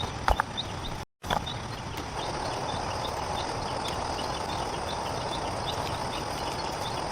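Steady outdoor background noise with faint, irregular high chirps, typical of rainforest insects. Two sharp knocks come early, and the sound drops out completely for a moment about a second in.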